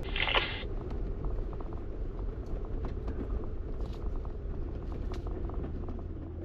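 Jeep Wrangler 4xe crawling off-road: a steady low vehicle rumble with scattered faint clicks, and a short, bright noise about half a second long at the very start.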